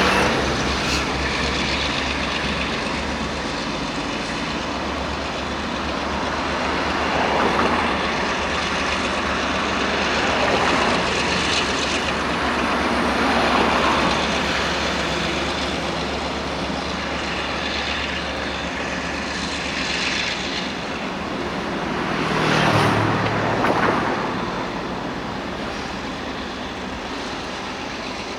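Locomotive moving slowly on rails, a steady low engine drone under wheel and rail noise that swells and fades in waves. The drone drops out about 22 seconds in, just as the noise rises to its loudest.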